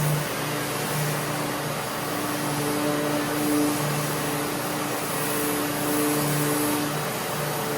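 A Surfprep sander running against a cabinet door while a Festool dust extractor pulls air through the hose. There is a steady whirring hiss, with a low hum that repeatedly swells and fades as the sander works.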